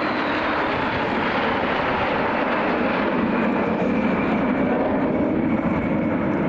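Aircraft engine noise as a plane flies past: a loud, steady rush with a faint high whine slowly falling in pitch.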